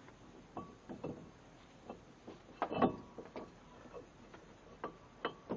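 Irregular metal clinks and knocks of brake parts and hand tools being handled while refitting a minivan's brake assembly, some ringing briefly, the loudest cluster about three seconds in.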